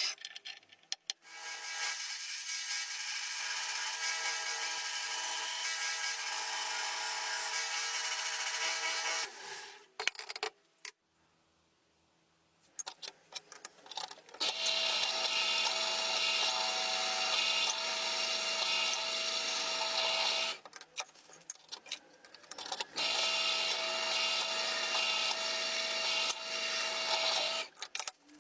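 Handheld electric power tool running against metal in long stretches of several seconds, with short pauses between them.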